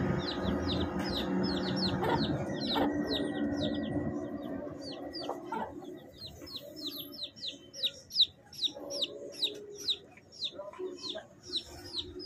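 Chicks peeping, a rapid run of short, high, falling peeps, about three to four a second. A steady low hum under them fades out over the first few seconds.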